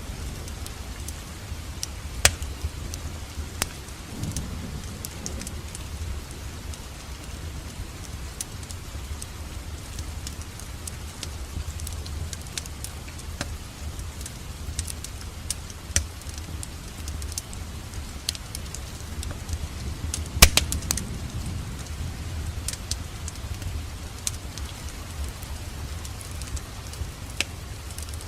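Fire crackling in a fireplace: scattered sharp pops and snaps over a low, steady rumble. The loudest pop comes about twenty seconds in.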